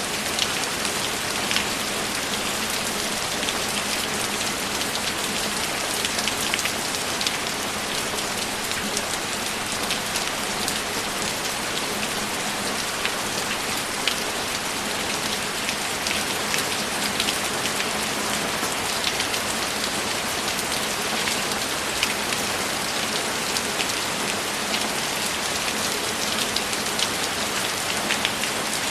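Steady heavy rain: a constant even hiss with many individual drops ticking sharply through it.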